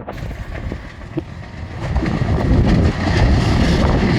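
Strong wind buffeting the microphone: a rough, rumbling rush that grows louder about two seconds in.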